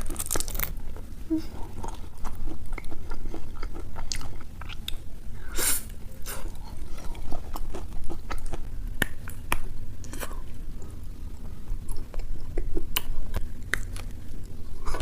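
Close-miked eating: a person biting into and chewing Dubai chocolate, its crisp kataifi-pastry filling crackling in short clicks, with one louder crunch about six seconds in.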